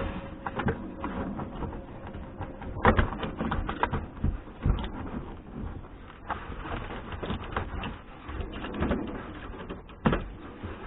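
Irregular clicks, taps and rustling of hands working on a car's interior trim and headliner, with a few louder knocks about three and five seconds in.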